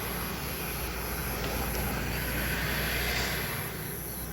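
A passing vehicle's engine and rushing noise, swelling to a peak about three seconds in and then fading. Crickets chirp steadily underneath.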